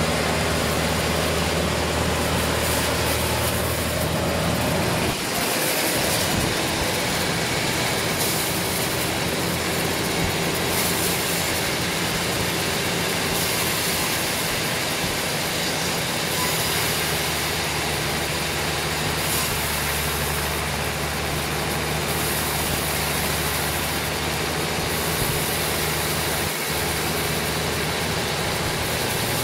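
Sawmill machinery running steadily: a low engine hum under a constant broad noise, its low note dropping out and shifting about five seconds in.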